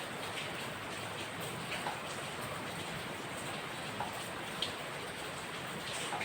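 Steady rain falling, an even hiss with a few individual drops tapping out clearly above it now and then.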